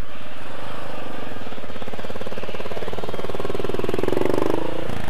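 Single-cylinder 650-class dual-sport motorcycle engine revving under load on a steep, loose dirt climb, its fast even firing pulses building over the first few seconds and then dropping back sharply near the end.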